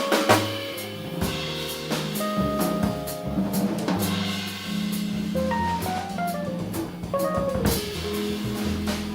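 Live instrumental band music: a drum kit playing steady strokes with cymbals, over sustained low bass notes. From about five and a half seconds in, a quick run of notes descends in pitch for about two seconds.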